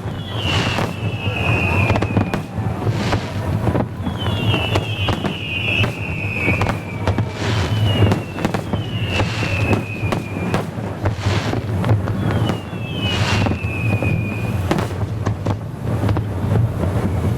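A fireworks display: repeated bangs and crackle from bursting shells, with several high whistles that each slide slightly downward in pitch. A steady low rumble runs underneath.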